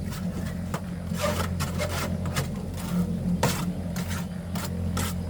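Irregular scraping and rubbing strokes over a steady low machine hum.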